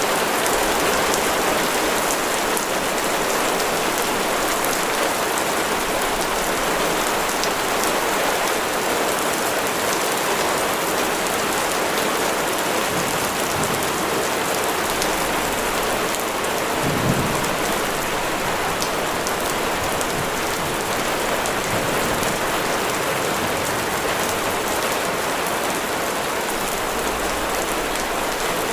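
Steady rain falling on a surface, a dense even hiss, with one brief low thump a little past the middle.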